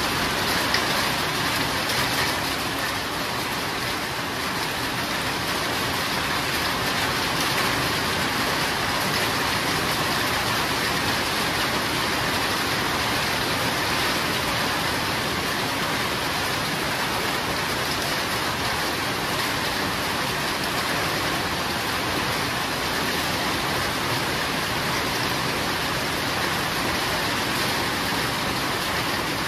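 Steady heavy rain falling, an even hiss of drops without breaks or thunder.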